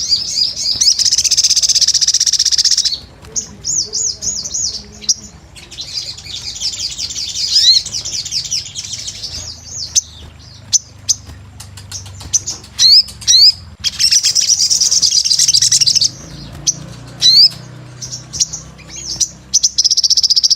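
Sogon (ruby-cheeked sunbird) singing energetically: high, fast trilled phrases lasting a few seconds, alternating with short, sharp rising chirps.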